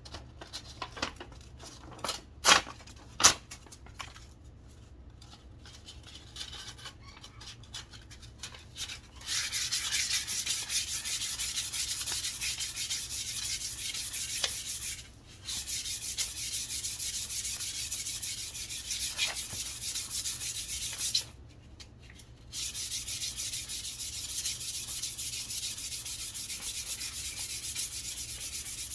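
150-grit sandpaper rubbing along a wooden walking stick. After a few seconds of handling knocks and clicks, steady sanding starts about nine seconds in and runs on with two brief pauses.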